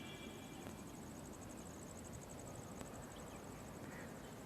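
Faint insect chirping: a steady, high, rapidly pulsing trill over a low background hum.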